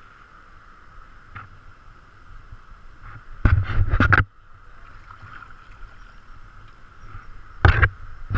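Kayak out on the river, with a steady rush of water and two loud bursts of noise, a longer one about three and a half seconds in and a short one near the end.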